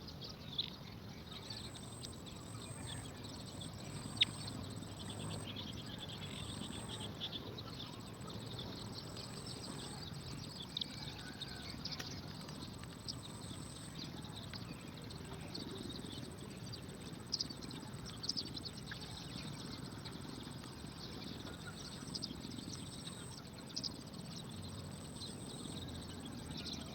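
Outdoor ambience: a steady hiss with faint, scattered chirps and a few soft clicks.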